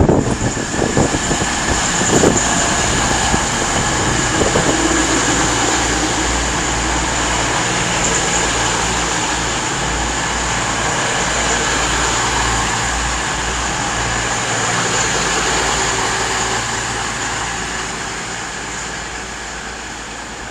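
East Midlands Railway Class 222 Meridian diesel multiple unit in the platform, pulling in with its underfloor diesel engines running and a steady high whine, with some clatter in the first couple of seconds and the sound easing off near the end.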